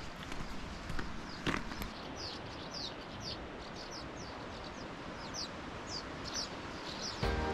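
A small bird chirping repeatedly in short, high, downward-slurred notes over a steady outdoor hiss, with one knock about a second and a half in. Background music comes in near the end.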